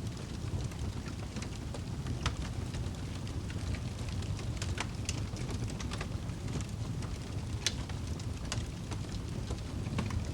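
Wood fire burning, with a steady low roar of flames and scattered sharp crackles and pops. The two loudest pops come about two seconds in and near eight seconds.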